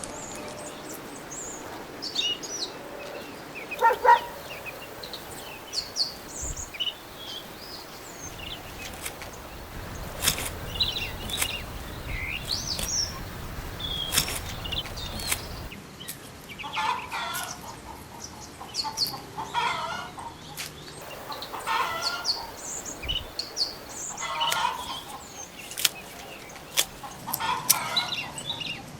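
Birds calling in a farmyard: short high chirps scattered throughout, and in the second half a lower clucking call repeated about every second and a half, with a few sharp clicks.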